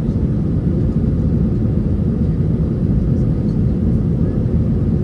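Airbus A320 cabin noise: a steady low rumble of the jet engines and airflow heard from inside the passenger cabin.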